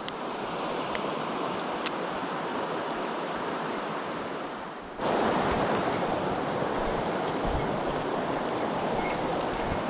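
Mountain stream rushing over rocks, a steady rush of water that gets suddenly louder about halfway through.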